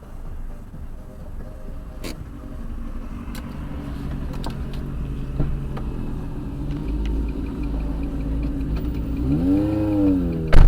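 Car road and engine rumble heard from inside a moving car. Near the end a pitched tone rises and falls back, then a single loud bang sounds just before the end, with faint regular ticking under it.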